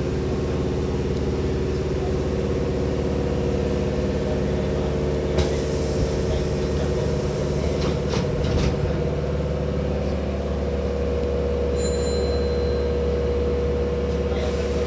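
Hankyu Takarazuka Line electric train with a steady electrical hum and tones. About five seconds in, a burst of air hiss lasts a couple of seconds, then a few knocks follow: the pneumatic doors working and closing. Another hiss of air starts near the end.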